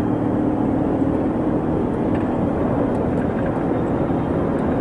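Steady motor vehicle running noise, a low rumble of engine and road with a faint steady hum.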